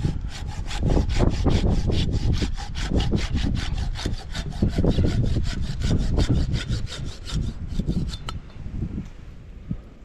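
Hand pruning saw cutting through a tree branch at the branch collar, in quick, even back-and-forth strokes that stop about eight seconds in.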